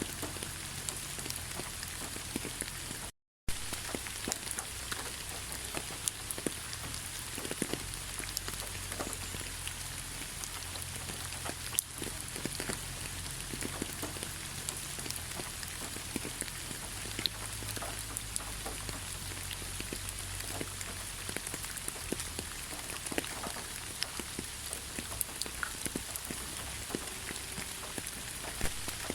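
Steady rain falling in a pine forest: a constant hiss with many separate drops ticking through it. The sound cuts out completely for a split second about three seconds in.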